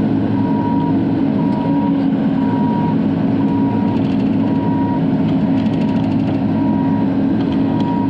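Bobcat E42 mini excavator's diesel engine running steadily, heard from inside the cab, with a short beep repeating about once a second.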